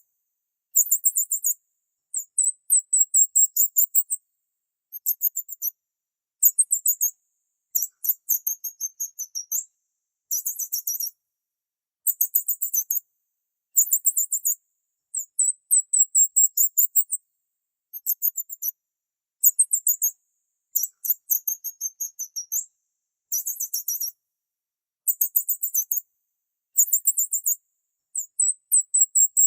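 Small bird chirping in a series of very high-pitched phrases, each about a second long, made of rapid trilled notes and short sweeping notes, with brief gaps between phrases.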